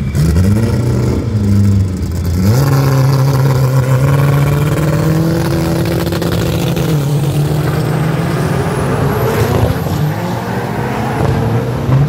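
Drag-race VW Gol engine revved on the start line: a quick rev that drops back, then held at steady high revs for a few seconds before launching and accelerating away, the pitch climbing.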